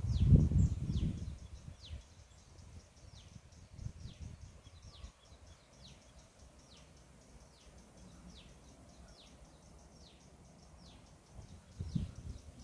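A bird calling: a short, high, falling note repeated steadily, a little faster than once a second. A low rumble on the microphone is loudest in the first second or two and returns near the end.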